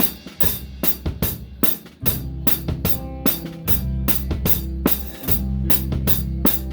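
Pearl drum kit played close up, with its snare damped by a towel: a steady beat of kick, snare and cymbal strokes, about four or five hits a second. Bass and guitar come in about two seconds in as the live band plays the song's instrumental intro.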